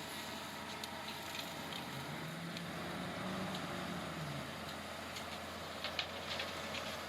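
Heavy earth-moving machine's diesel engine running steadily, its note rising briefly and falling again around the middle, with scattered small clicks and crackles.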